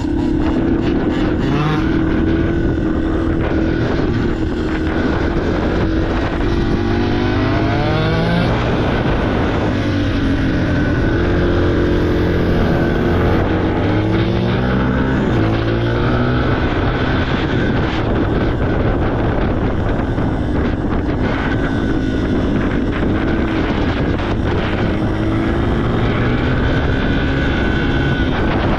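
Yamaha TT-R230 dirt bike's single-cylinder four-stroke engine running while riding, its pitch repeatedly rising and dropping back as it revs up and shifts.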